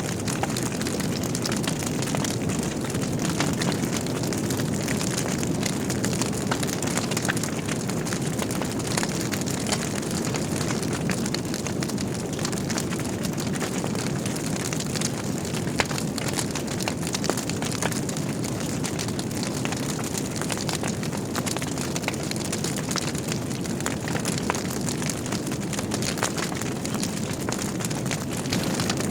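Wood fire burning in a fireplace: a steady low rumble of the flames with frequent small crackles and pops throughout, one sharper pop about halfway through.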